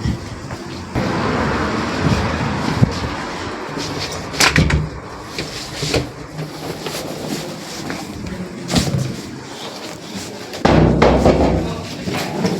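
A few sharp knocks and thuds among rushing, rustling handling noise, the loudest knock about four and a half seconds in and a heavier thudding stretch near the end.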